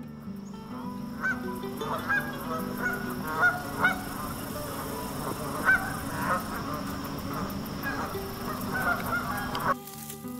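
Black swan calling: a long series of short, high calls, about two a second, over soft background music. The calls stop near the end.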